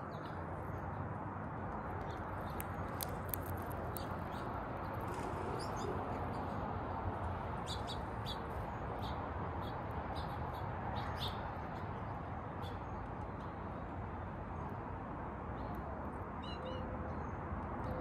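Backyard birds chirping: scattered short, high chirps and clicks over a steady low rush of outdoor background noise, with a brief run of chirps near the end.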